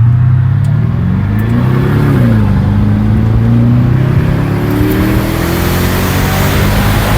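2006 Porsche Cayenne Turbo's twin-turbo V8, muffler deleted, accelerating hard: the revs climb for about two seconds, drop with an upshift, then climb steadily again.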